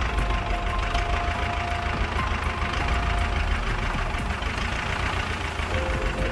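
A heavy vehicle's engine running steadily with a deep low rumble.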